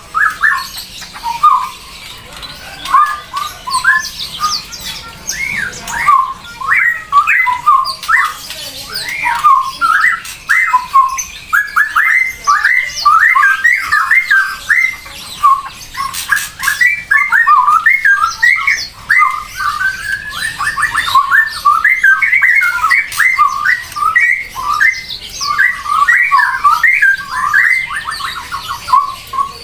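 A bird chattering continuously with rapid squawks and chirps that glide quickly up and down in pitch.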